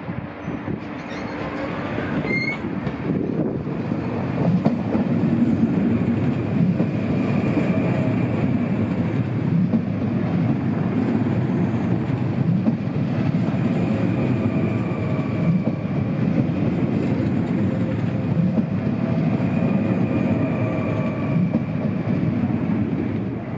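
Dutch NS double-deck electric train passing close along the platform: a rumble of wheels on the rails that builds over the first few seconds, then holds steady as the carriages go by, with a faint high whine coming and going. It eases off just at the end as the last car passes.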